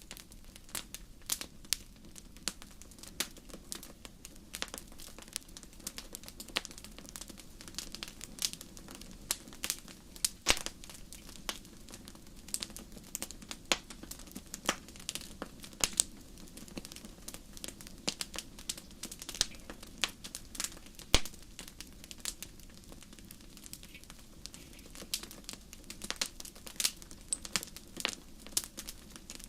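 Wood fire burning in a fireplace, crackling with irregular sharp pops and snaps, several a second, one louder snap about two thirds of the way in.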